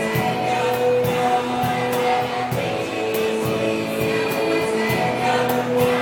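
Choir singing with instrumental accompaniment, held notes over a steady rhythmic beat.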